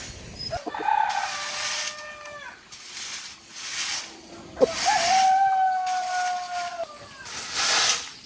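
Two long, level calls from chickens, each about two seconds, the second higher and a few seconds after the first, between repeated short swishing noises.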